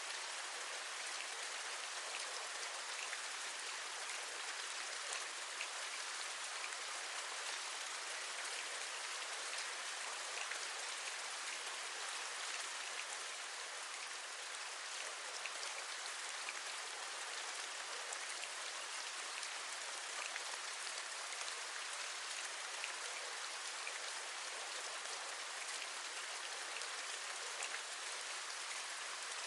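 Steady rain with many small drops pattering, even and unbroken throughout.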